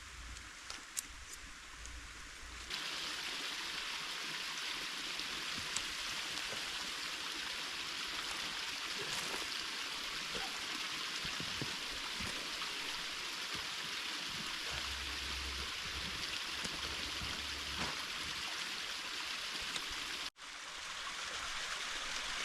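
Creek running: a steady rush of flowing water, growing louder about three seconds in, with a brief dropout near the end.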